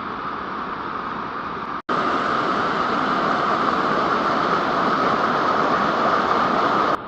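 Steady rushing noise with no clear pattern. It breaks off abruptly about two seconds in and comes back louder.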